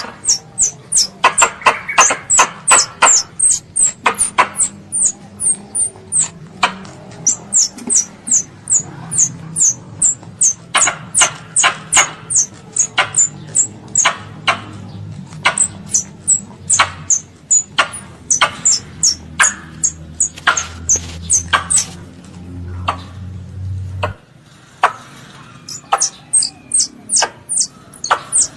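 Squirrel's high-pitched squeaking calls in rapid runs of a few a second, each a short, slightly falling chirp, with brief pauses between runs; the title takes them for a young squirrel calling its mother. A faint low hum sits under them and stops about 24 seconds in.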